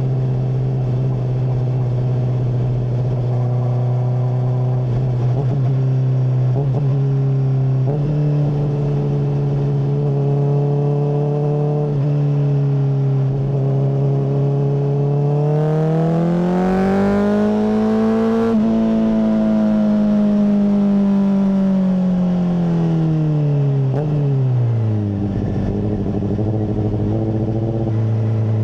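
Honda CBR600RR inline-four engine through a MIVV full exhaust, running at a steady speed under way. About halfway through the revs climb smoothly, peak, and then fall back to where they were, with a rush of hiss near the top of the rise.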